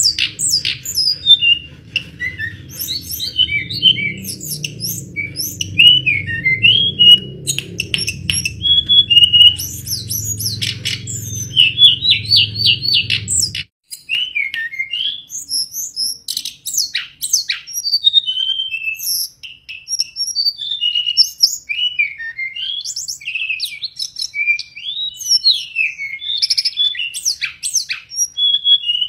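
Hill blue flycatcher singing continuously, a rapid run of sweet whistled phrases and short trills. Under the first half runs a low steady hum, which cuts off suddenly about halfway through.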